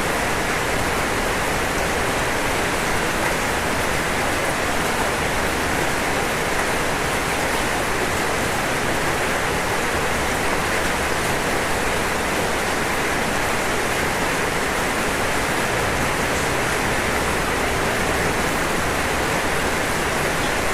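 Steady rain falling on a roof, an even hiss with no separate drops standing out.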